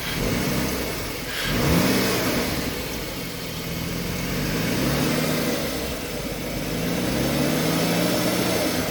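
2006 Ford Taurus V6 engine running smoothly on six new spark plugs and wires, the P0316 misfire cured; its engine speed rises and falls slowly several times. A brief rustle comes about a second and a half in.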